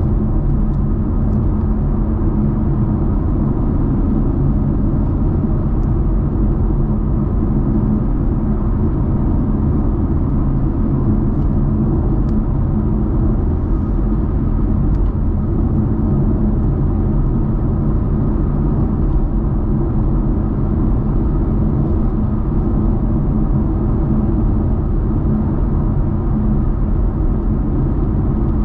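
A muscle car's engine droning steadily at a constant cruising speed, over continuous road rumble, with no revving or gear changes.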